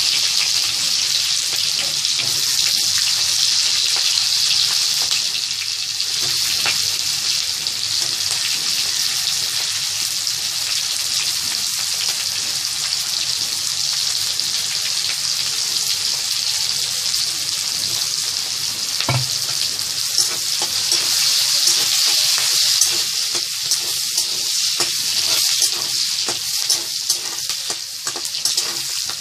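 Diced onions sizzling steadily in hot oil in a metal kadai, with scattered clicks and scrapes of a metal spatula stirring them.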